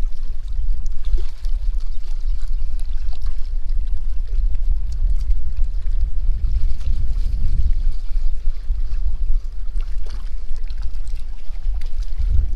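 Strong wind buffeting the microphone: a loud, steady low rumble that swells and dips with the gusts.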